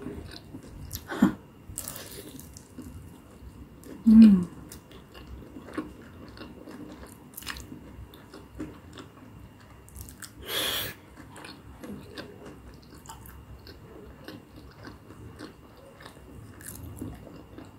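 Close-up chewing and biting of a potato-coated corn dog with mozzarella and tteokbokki sauce: small crisp, wet mouth clicks and crunches. There is a short low hum about four seconds in and a brief louder noise a little past the middle.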